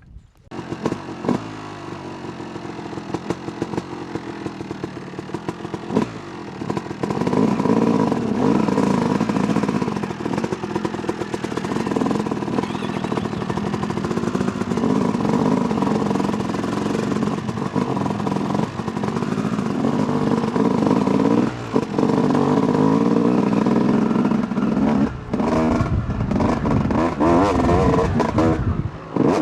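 2008 Yamaha YZ250 two-stroke dirt bike engine running on and off the throttle while riding, its pitch rising and falling through the gears. It is quieter for the first several seconds, then louder from about seven seconds in, with a few brief drops as the throttle is shut.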